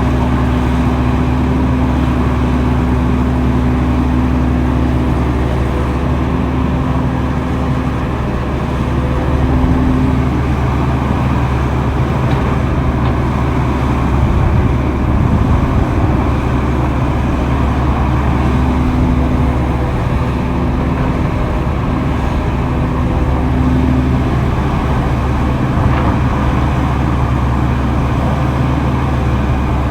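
Diesel engine of heavy earthmoving machinery running steadily with a deep drone, a higher tone coming and going over it.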